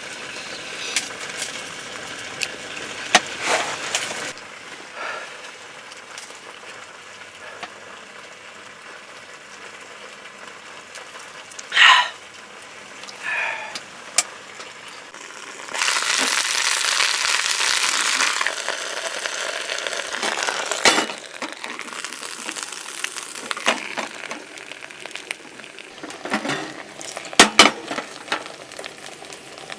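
Camp cooking: scattered clicks and knocks of pots and utensils, with a hiss lasting a couple of seconds about halfway through.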